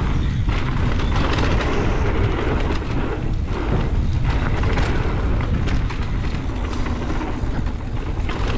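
Strong wind buffeting the microphone with a continuous low rumble, as a mountain bike rides a fast trail in high winds.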